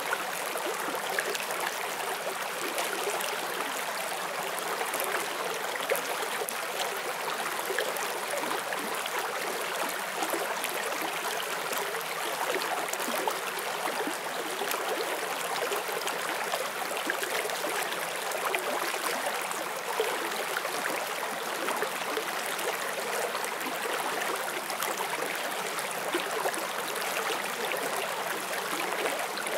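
Forest stream flowing over stones: a steady, even rush of water with fine splashing and gurgling detail.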